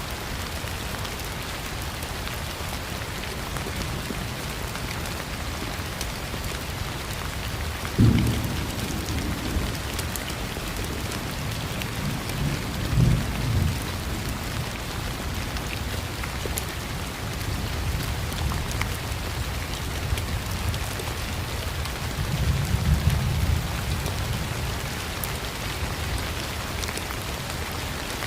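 Steady rain falling, with thunder: a sudden clap about eight seconds in that rolls off, then two more low, rolling rumbles, the louder around thirteen seconds and another around twenty-three seconds.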